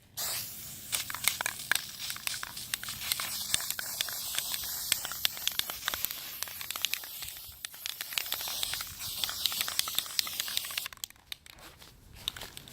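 Aerosol spray paint can hissing in one long spray with scattered crackles, cutting off suddenly near the end.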